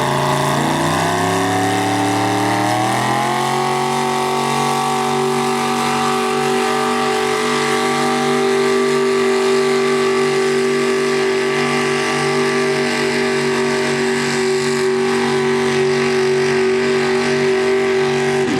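Six-cylinder Cummins diesel pickup engine under full throttle pulling a weight sled. It climbs in pitch for the first three or four seconds, then holds steady at high revs.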